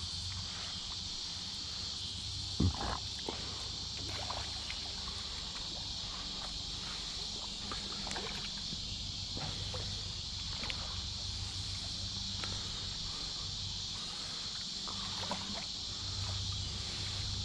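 Water sloshing and splashing in the shallows as a hooked carp is dragged in to the bank, with a single sharp knock about three seconds in. A steady high chorus of crickets and other insects runs underneath.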